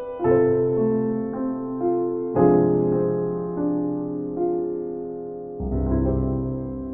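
Slow, gentle solo piano music: single notes and chords ringing out and fading, with new chords struck about two and a half seconds in and again near the end.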